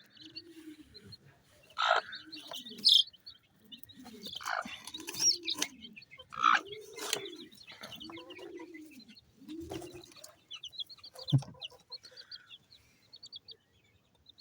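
Broody hen giving low, rising-and-falling calls over and over, about one a second, the defensive calls of a hen guarding her chicks; her chicks peep in quick high series near the start and the end, with a few sharp louder squawks or scuffles in between.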